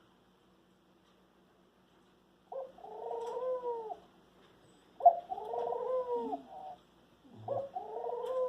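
A bird calling three times, each call a drawn-out note of about a second and a half that rises and then falls, with the calls a couple of seconds apart.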